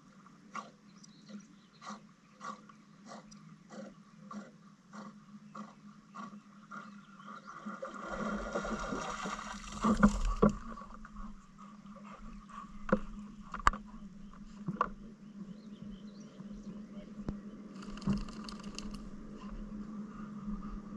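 Canoe on the river: quick regular clicks about two a second, a rush of water about eight seconds in, then a few scattered sharp knocks against the hull.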